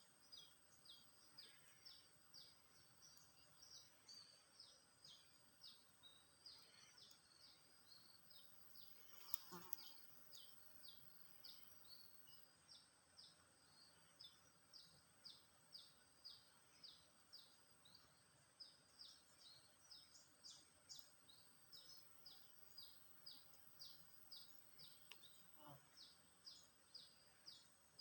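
A bird calling faintly outdoors: a steady run of short, high chirps, about two a second, with a brief louder sound about nine seconds in.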